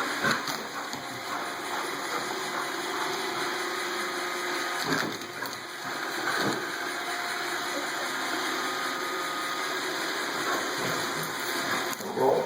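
iRobot Roomba robot vacuum running: a steady whir of its motor and brushes, with a few brief knocks along the way.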